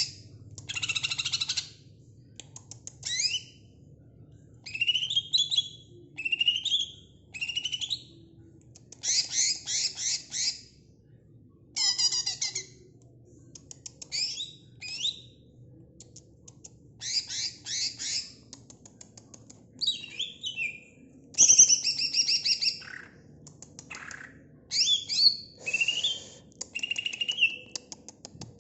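Cucak ijo (green leafbird) singing: a string of short, varied phrases of whistled sweeps and chattering notes, each about a second long, with brief pauses between them.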